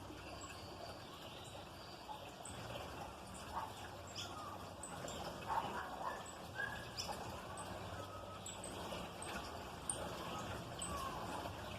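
Small songbirds calling: many short, high chirps at irregular intervals, with a few lower squeaky whistled notes mixed in.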